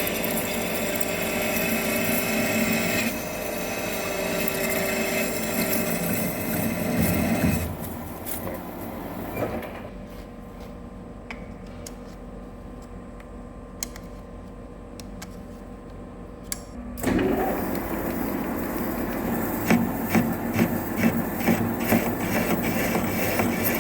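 Metal lathe cutting with a button insert tool, hogging out a weld on a steel bulldozer pin: a steady scraping cut noise that is interrupted by the weld. The noise drops to a quiet hum about eight seconds in. It comes back loudly about seventeen seconds in, with a run of sharp ticks a few seconds later.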